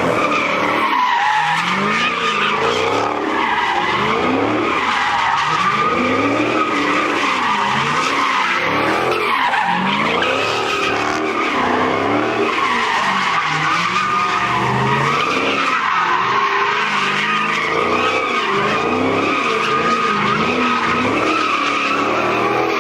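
A car doing donuts: tires squealing without a break, while the engine revs rise and fall over and over.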